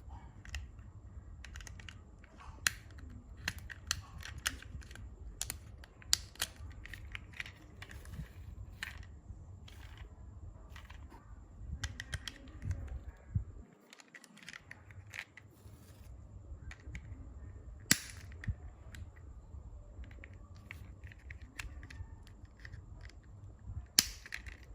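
Irregular sharp clicks and taps of hard plastic, as a toy bulldozer is handled, over a steady low hum. The two loudest knocks come about 18 seconds in and near the end.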